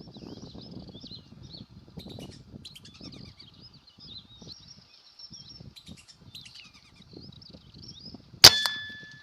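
Birds chirping and whistling steadily over faint low rustling. Near the end comes one sharp, loud metallic clang that rings briefly.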